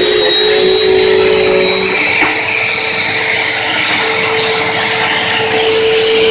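Bissell Powerforce Helix upright vacuum cleaner running steadily, its motor giving a high whine over a loud rushing hiss.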